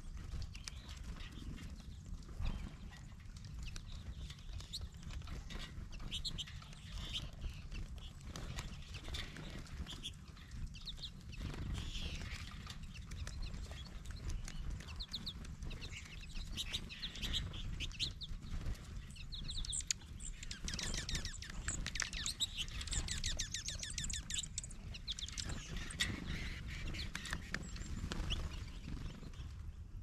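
Small birds chirping and twittering in quick runs of high calls, busiest from about twenty seconds in, with a few sharp taps and a steady low rumble underneath.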